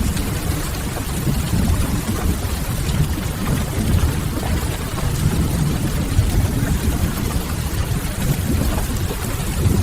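Mixed ambience of steady rain on window glass and a crackling wood fire: an even hiss over a deep, fluctuating rumble.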